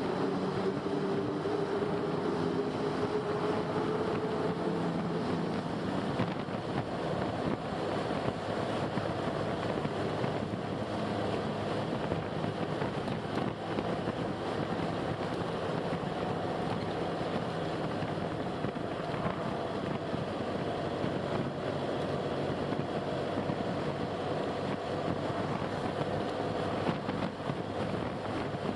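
Car being driven along a road: a steady rush of road and engine noise, with the engine's tones shifting in pitch during the first few seconds.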